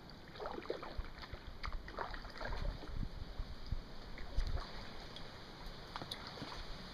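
Canoe on the water: soft splashes and drips from paddling, with a few light knocks scattered through.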